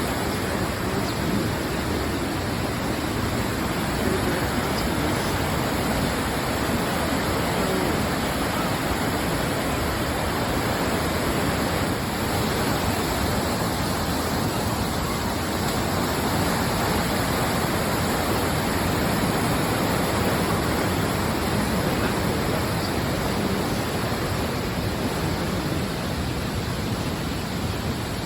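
Steady rush of a flood-swollen mountain creek, the water running high and fast.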